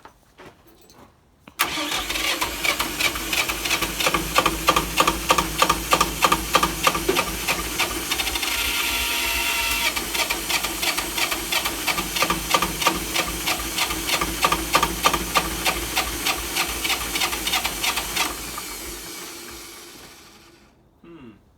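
Electric starter cranking the old Jiangxi tractor's JT diesel engine for about sixteen seconds, with an even beat of compression strokes and a smoother stretch partway through. The starter is then released and winds down. The engine, which hasn't been started in a while, does not catch.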